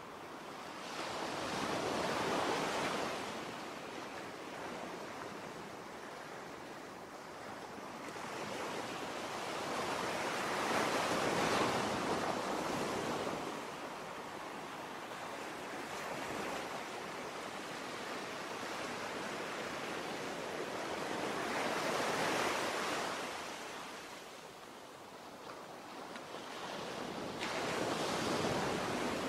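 Ocean surf: waves washing in and drawing back, the hiss swelling and fading four times, about every eight to ten seconds.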